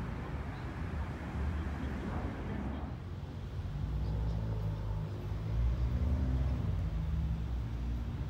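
Sydney Trains Waratah electric train approaching the platform, a low rumble and hum with several tones that shift slightly in pitch, over a general vehicle rumble.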